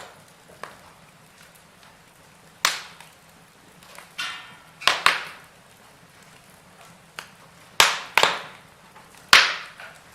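Logs burning in a fireplace: a low steady hiss with small crackles and about seven loud, sharp pops of the burning wood, some in quick pairs.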